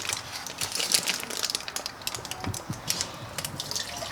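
Aluminium foil crinkling and crackling as it is handled, in a dense run of small rustles and clicks.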